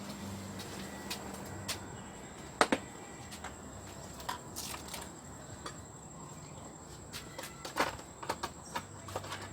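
Scattered light clicks and taps of tools and small engine parts being handled while a gap is checked on a Honda GC160 engine. One sharp click comes about two and a half seconds in, and a quick run of several more comes near the end, over a faint steady hum.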